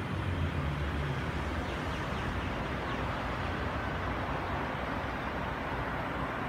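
Steady low rumble of a Millennium-set electric passenger train approaching from a distance.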